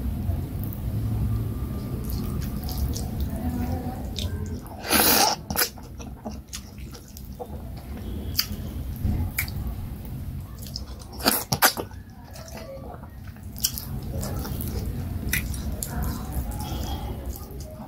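Close-miked eating sounds of a person eating fufu and vegetable soup by hand: wet chewing with many short mouth clicks and smacks. Two louder noisy bursts come about five seconds in and again about eleven seconds in.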